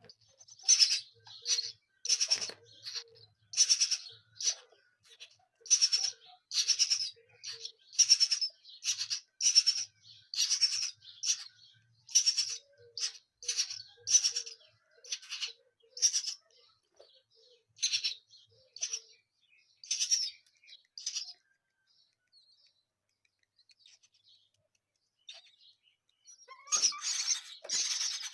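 Nestling birds begging with high, raspy chirping in short bursts about once a second. They fall quiet for a few seconds, then break into a denser burst of calls near the end.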